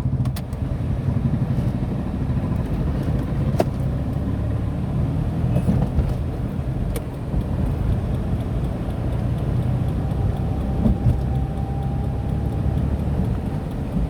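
Tata Nano car driving: a steady low rumble of engine and road noise, with a few sharp ticks and, about two-thirds of the way in, a faint steady whine.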